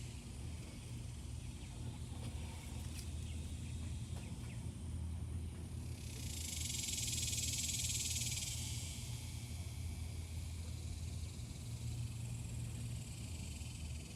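Cicadas buzzing in a steady high drone, one call swelling louder about six seconds in and fading away about three seconds later, over a faint low hum.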